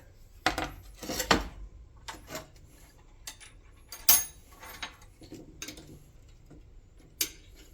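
Small metal shifter parts clinking and clicking as they are handled and fitted by hand: a string of separate light metallic clicks and clanks, the sharpest about four seconds in.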